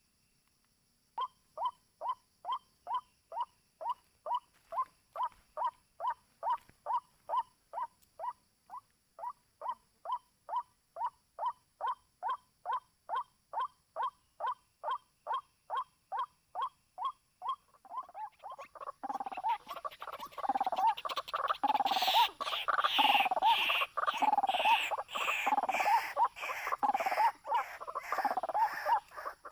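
White-breasted waterhen calling: after about a second of quiet, a steady run of short, evenly spaced croaking calls at about two a second, then a louder, busier chorus of overlapping calls for the last third.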